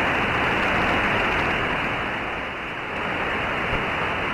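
Radio receiver static: a steady hiss of open-band noise with no station coming through, dipping slightly a little past halfway.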